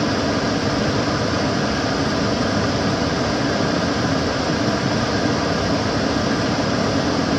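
Kitchen cooker hood extractor fan running steadily: a constant rush of air with a low hum.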